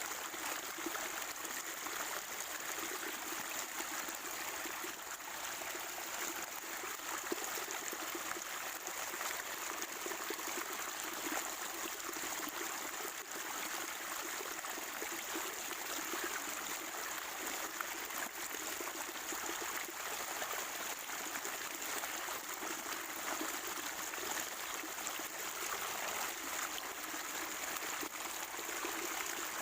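Natural spring water trickling and gurgling steadily, an even, unbroken water noise.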